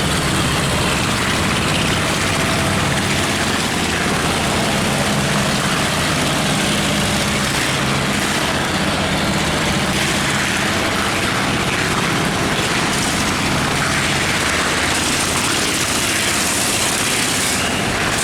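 Boat and barge diesel engines running hard together, a steady low hum under a loud, even rushing noise.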